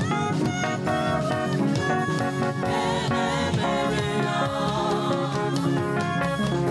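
Live gospel praise music: a choir singing over a band, with a steady beat of percussion.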